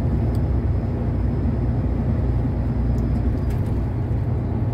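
Steady engine drone and road rumble inside the cab of a truck cruising along the highway.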